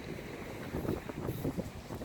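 Wind buffeting the microphone: an uneven low rumble that rises and falls in short gusts.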